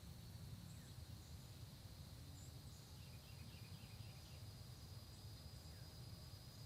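Faint dawn countryside ambience: a steady high insect trill, typical of crickets, with a few soft bird chirps and a short quick run of bird notes about three seconds in.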